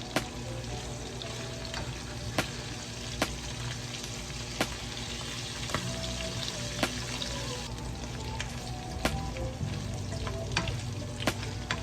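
Peppers sautéing in a pan, sizzling steadily, with sharp clicks now and then as a utensil strikes the pan while they are stirred.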